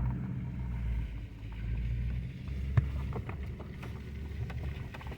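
Vehicle driving slowly, heard from inside the cab: a steady low rumble with scattered light knocks and clicks.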